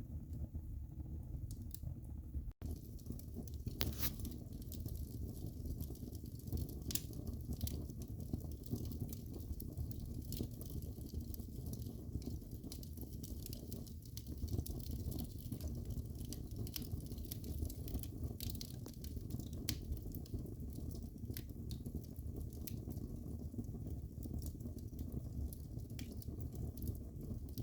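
Fire burning in a fireplace, crackling with frequent sharp, irregular pops over a steady low rumble of the flames. The sound drops out for an instant about two and a half seconds in.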